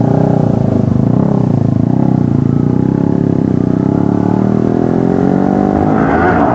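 Motorcycle engine running steadily, then rising in pitch over the last couple of seconds as it accelerates.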